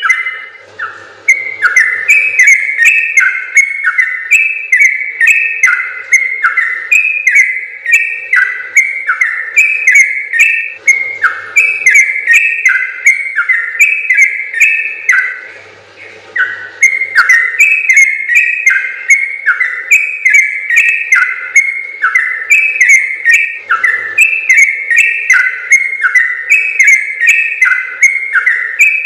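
Yellow-vented bulbul (trucukan) singing a long, fast run of bubbling whistled notes, with brief pauses about a second in and about halfway through.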